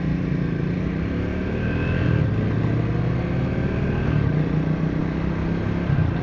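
Triumph Speed 400's single-cylinder engine running while the bike is ridden, its note rising gently in pitch about a second in as it pulls.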